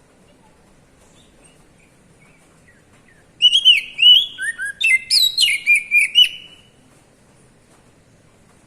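Oriental magpie-robin (kacer) singing a loud burst of quick, repeated whistled notes that slide up and down, starting a few seconds in and lasting about three seconds.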